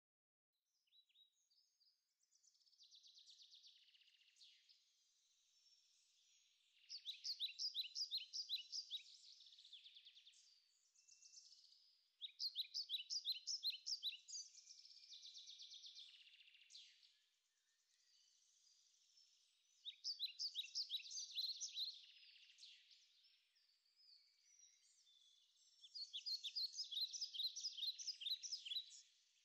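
Faint birdsong: four bursts of fast, evenly spaced high chirps several seconds apart, with softer twittering in between.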